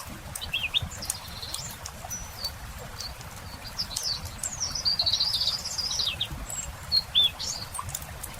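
Songbirds chirping and whistling, with a longer run of song about four seconds in. Beneath them a wood campfire crackles with small scattered pops.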